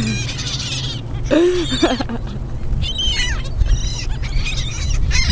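A swarming flock of birds calling over one another while they compete for thrown bread, with many short, overlapping squawks.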